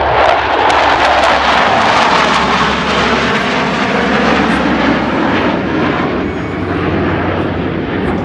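Four F-16 Fighting Falcon fighter jets of the USAF Thunderbirds flying past in diamond formation: a loud jet roar, loudest in the first two seconds, then slowly fading as the pitch falls while the jets pass.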